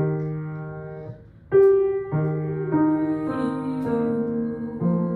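Piano playing the accompaniment of a vocal warm-up exercise: a chord struck at the start and again about a second and a half in, then held notes that step down in pitch, with a new chord near the end.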